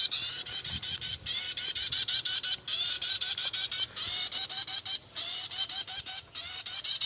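Small bird calling with loud, rapid high chirps, about seven notes a second, in bursts of a little over a second separated by brief breaks.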